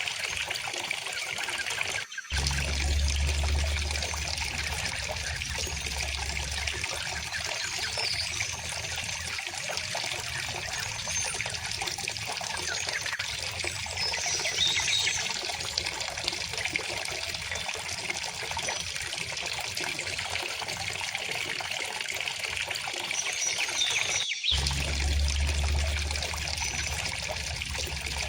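River water flowing and trickling steadily, with a few faint bird chirps over it. The sound cuts out for an instant twice, each time followed by a few seconds of low rumble.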